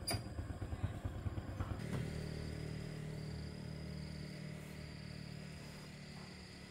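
Small single-cylinder underbone motorcycle engine idling with a choppy low rumble, settling about two seconds in into a steadier, fainter hum. A high buzzing tone comes and goes over it in the second half.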